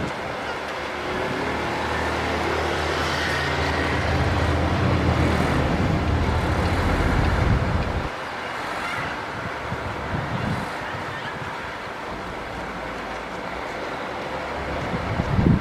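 Heavy diesel engine of earthmoving machinery running hard with a steady low drone. About eight seconds in the drone drops away, leaving a quieter, rougher rumble.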